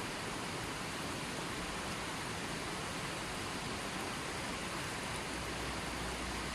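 Running water flowing steadily: an even wash of noise with no distinct splashes, drips or breaks.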